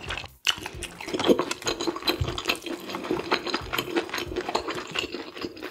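Close-miked wet chewing and mouth sounds of a person eating, with many short clicks and light taps of wooden chopsticks picking up food.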